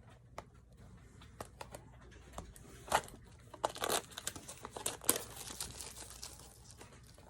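Packaging crinkling and tearing in scattered bursts, busiest about halfway through: a small cardboard blind box and its foil bag being pulled open.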